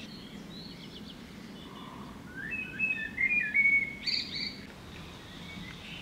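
A songbird singing one quick phrase of varied high chirps and short trills from about two seconds in, with a few faint chirps before it, over a steady low background noise.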